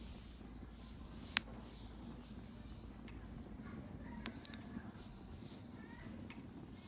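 Wood bonfire burning with a steady low rush of flame and sharp crackling pops from the burning wood. The loudest pop comes about a second and a half in, and two more come close together near the middle.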